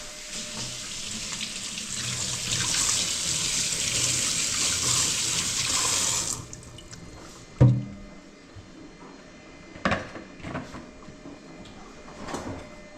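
Water running from a tap, which shuts off abruptly after about six seconds. A sharp knock follows a second or so later, with a few lighter clicks near the end.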